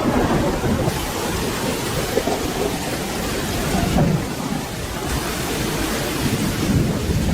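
Steady rain with low thunder rumbling underneath, the rumble swelling and easing unevenly.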